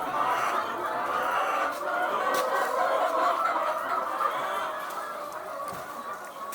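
A large flock of chickens clucking together in a poultry house, a dense chatter of many birds at once that gradually grows quieter toward the end.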